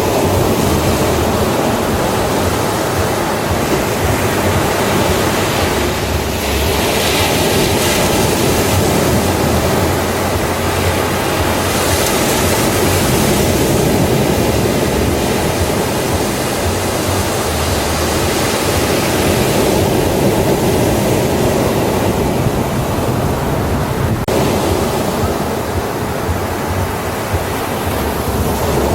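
Ocean surf breaking on a beach, a continuous wash of waves that swells and eases every few seconds.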